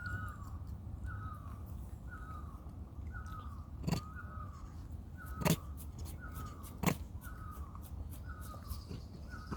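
An animal's short, hooked whistle-like call, repeated evenly about once every 0.8 s over a low rumble, with three sharp knocks in the middle.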